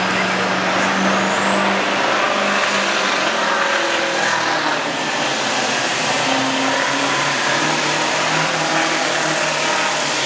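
Massey Ferguson altered farm-stock pulling tractor's engine running hard under load as it pulls the sled, a loud steady drone. A thin high whine climbs over the first two seconds and then holds.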